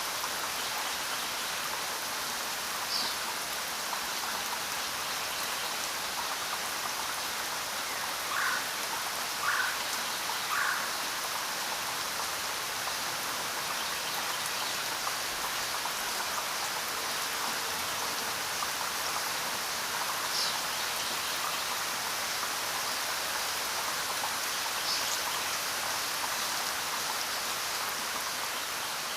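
Steady rainfall, an even hiss of many drops. A few brief, sharper sounds stand out, three of them close together about eight to eleven seconds in.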